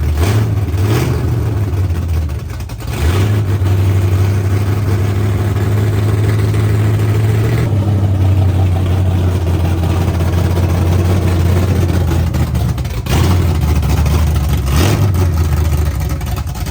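Freshly built Ford 347 stroker V8 (a stroked 302) in a 1976 Bronco running loud on its first start-up. It holds a steady idle, broken by short throttle blips near the start, about three seconds in, and again a few seconds before the end.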